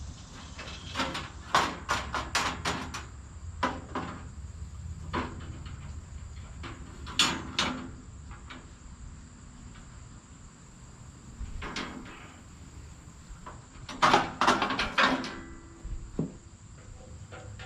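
Irregular clusters of sharp knocks and clattering, loudest about fourteen to fifteen seconds in, over a faint steady high-pitched hum.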